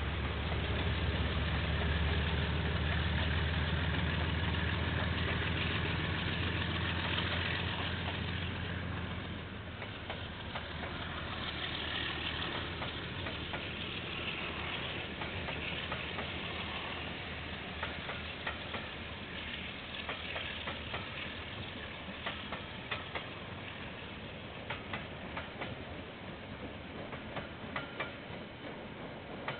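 KiwiRail diesel locomotive's engine drone passing and fading over the first nine seconds or so, then the train's wagons rolling by with wheels clicking over rail joints, the clicks coming thicker near the end. Heard through a security camera's microphone, thin in the top end.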